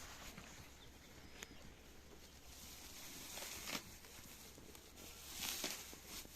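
Faint rustling with a few brief scuffs, the clearest a little before four seconds in and again around five and a half seconds.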